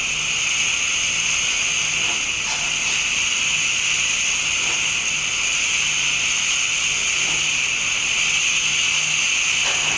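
Gevi GECMD627BK-U espresso machine's steam wand blowing steam into a cup with a steady hiss, purging and cleaning the steam tube; a faint low hum comes and goes underneath.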